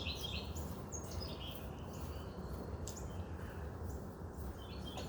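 Small songbirds chirping in short, quick notes, busiest at the start and again about a second in, then only a few scattered chirps, over a steady low background rumble.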